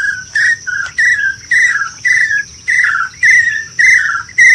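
A bird calling loudly in a steady series of short whistled notes, about two a second, each dropping slightly in pitch, over the continuous high buzz of insects such as cicadas or crickets.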